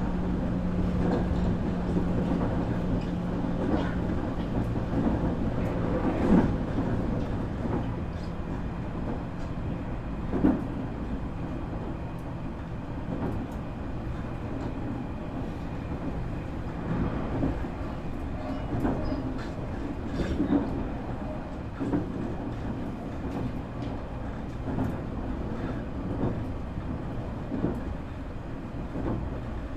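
Nankai 8300 series electric train running, heard from inside the car: a steady low running rumble with a low motor hum that fades away after the first several seconds. Now and then the wheels knock over rail joints.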